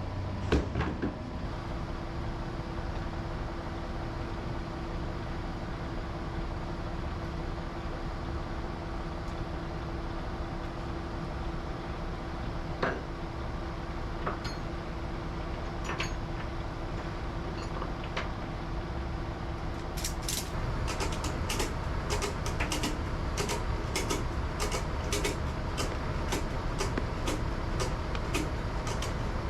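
A steady mechanical hum with a few single knocks, then, about two-thirds of the way through, a run of sharp metallic clicks about two a second, typical of a cargo ratchet strap being ratcheted tight.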